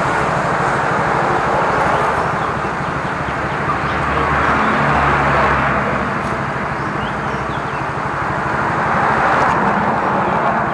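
A motor running steadily under a loud rushing noise, cut off suddenly near the end.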